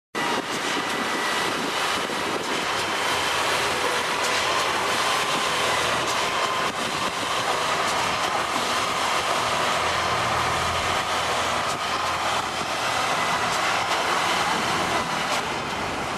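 Machinery running steadily: a continuous mechanical din with a faint, steady high whine, starting abruptly.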